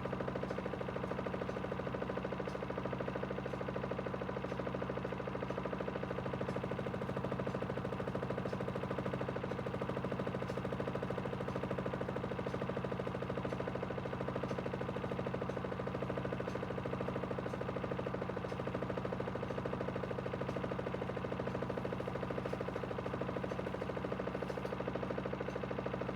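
Aidoo 1 kg mini washing machine with a direct-drive motor, running with a steady hum as it spins its drum at constant speed.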